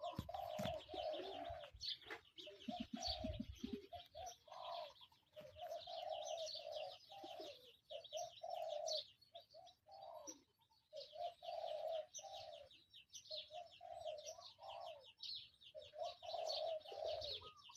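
Doves cooing over and over in short repeated phrases, with small birds chirping rapidly and continuously behind them. A few low knocks come in the first few seconds.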